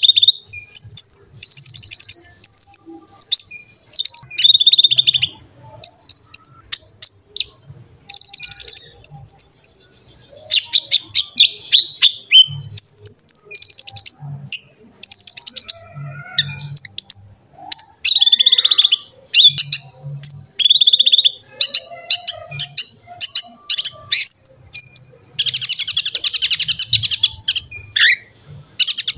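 A konin (kolibri ninja) sunbird singing a fast, unbroken stream of high chirps, quick sweeping notes and short trills, with a harsher rattling phrase near the end.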